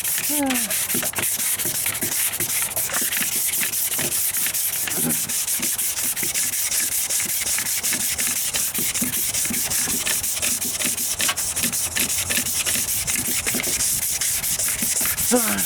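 Sandpaper on a sanding block rubbed steadily back and forth over cured body filler and spot putty on a truck's rocker panel, a continuous dense scratching of hand sanding.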